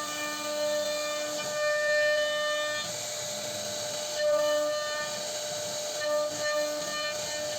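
CNC router spindle whining steadily as it carves wood, with its overtones coming and going and a few louder swells about two, four and six seconds in.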